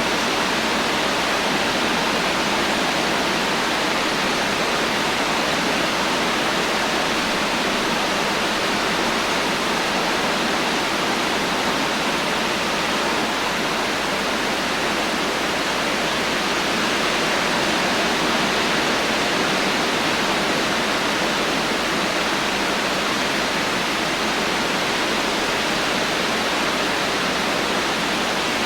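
Heavy rain with no thunder: a steady, even hiss with no single drops standing out.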